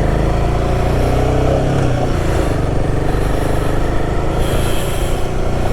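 Royal Enfield Himalayan 450's single-cylinder engine running steadily under way, its pitch dropping briefly about two seconds in.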